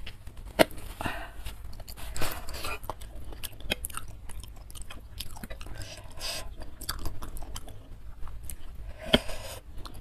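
Close-miked mouth sounds of someone chewing a mouthful of spicy instant noodles, with many short wet clicks.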